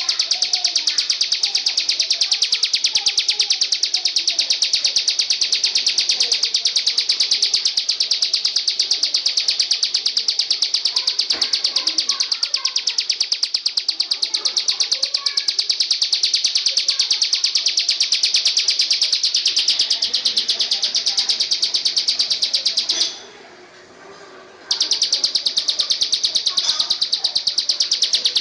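A loud, continuous, high-pitched trill made of very rapid even pulses. It breaks off for about a second and a half near the end, then starts again. Faint scattered chirps sit underneath.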